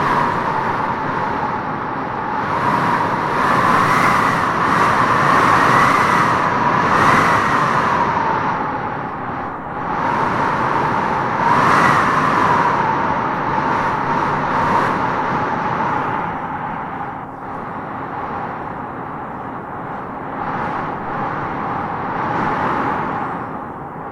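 Howling wind gusting through trees: a steady rushing noise with a whistling howl that rises and swells in gusts, strongest about four to eight seconds in and again around twelve seconds, then easing.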